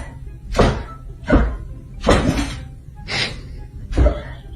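A series of five loud thumps at uneven intervals, roughly one every three quarters of a second to a second.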